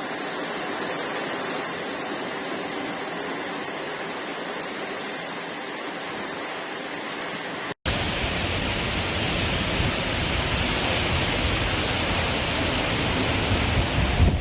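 Steady rushing noise of a heavy rainstorm with water running. About eight seconds in it breaks off for an instant and comes back louder, with a low rumble added.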